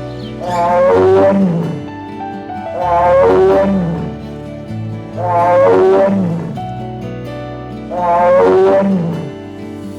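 An animal's loud call, falling in pitch, repeated four times at even spacing over background music.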